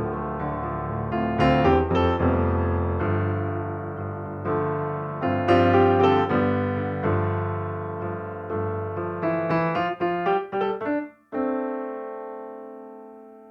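Background piano music: struck chords and a run of quick notes, then a brief break a little after the middle and a final chord that slowly fades.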